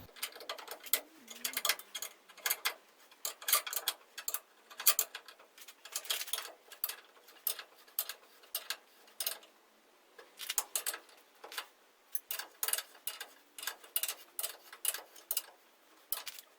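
Small, sharp metal clicks and taps in irregular runs of a few a second: an open-ended spanner being worked round a bolt nut, refitted on the flats for each short turn.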